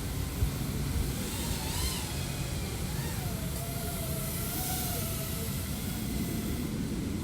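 A 3.5-inch FPV quadcopter's motors and propellers whining, the pitch wavering up and down with the throttle, over a steady rushing noise.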